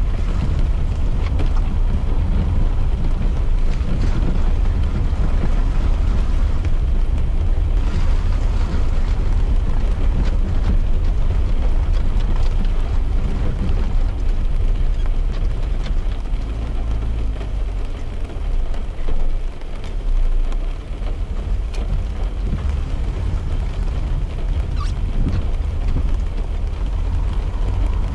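Car interior noise while driving in the rain: a steady deep road-and-engine rumble with rain hitting the car's glass and body. The rumble drops for a few seconds a little past the middle, then returns.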